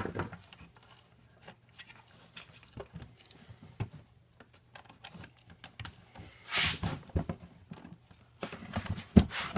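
Hands fitting a drive belt into a vacuum cleaner's plastic housing: faint scattered clicks and handling noises, with one brief louder scrape about two-thirds of the way through and a few clicks near the end.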